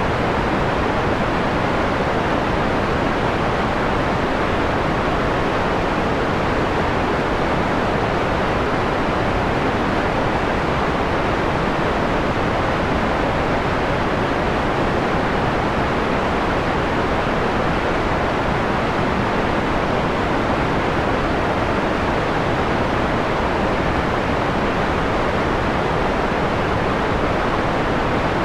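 Steady electronic white noise, filtered to a mellow, dull hiss with the treble rolled off. It is unchanging throughout.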